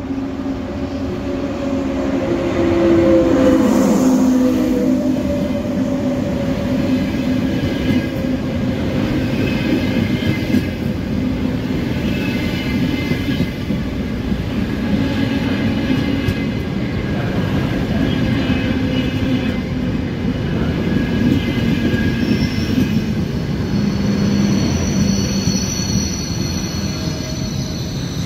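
Frecciarossa ETR 500 high-speed electric train arriving and running past close by. It is loudest about three to four seconds in, as the power car goes by with a falling tone, then a long steady rumble of coaches rolling past. High thin wheel squeals come in near the end as it slows into the station.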